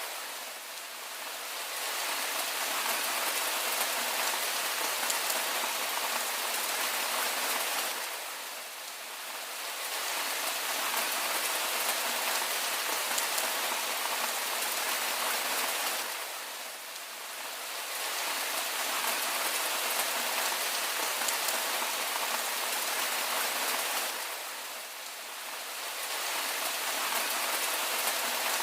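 Steady rain falling and pattering on surfaces, an even hiss with no thunder. The loudness dips briefly about every eight seconds.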